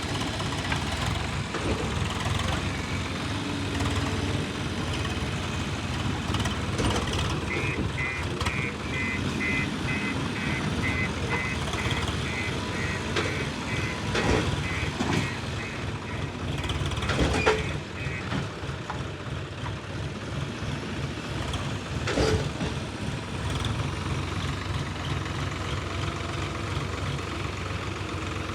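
Heavy diesel machinery running steadily while working earth. A reversing alarm beeps about twice a second for roughly ten seconds in the middle. A few sharp knocks are heard near the middle and again later.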